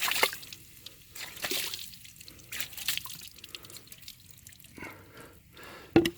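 Baking soda dissolved in water being splashed onto a stainless steel motorcycle exhaust, dripping and splattering in irregular bursts, to neutralize the acidic pickling paste.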